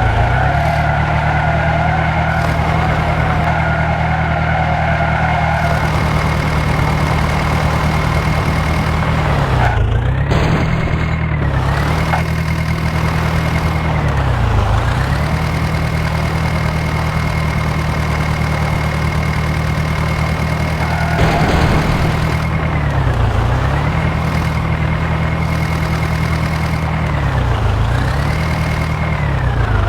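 John Deere 5055 tractor's diesel engine running at a steady speed, its pitch dipping sharply and recovering about seven times, as if briefly loaded down. For the first six seconds a steady higher tone sounds over it.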